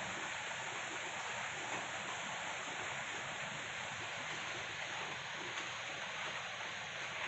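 Steady rainfall, an even hiss of many drops.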